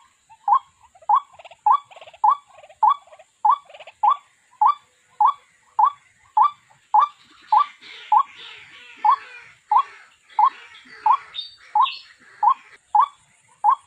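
White-breasted waterhen calling: a short rising note repeated steadily, a little under two a second, the lure call used for trapping. About halfway through, a scratchier chatter of calls runs over it for several seconds.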